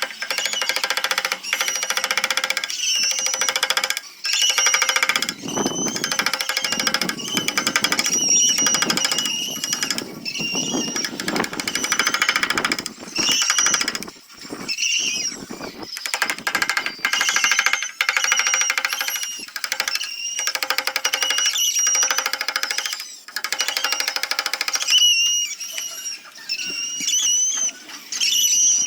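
Handheld electric sanding/grinding tool working a zelkova root carving, a rapid buzzing run with a motor whine whose pitch dips and recovers as it bears on the wood. There are short let-ups several times.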